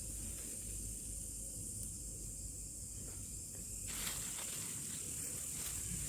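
Steady high-pitched buzzing of a forest insect chorus, over a low, distant engine drone from a palm-oil mill. About four seconds in there is a brief spell of crackling clicks.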